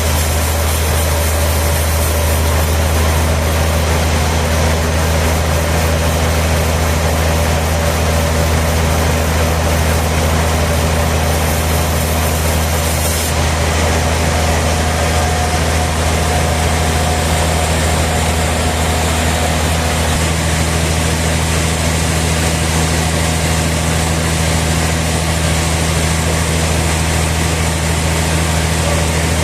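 Sawmill machinery running steadily: a deep, even engine or motor hum under a wash of mechanical noise. A high hiss drops away about 13 seconds in.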